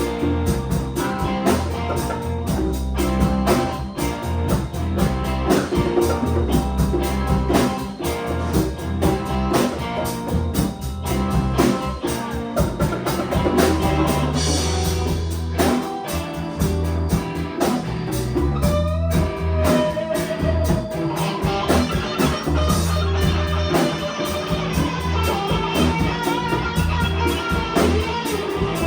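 A band playing a blues-rock song: guitar over a strong bass line and a drum kit beat.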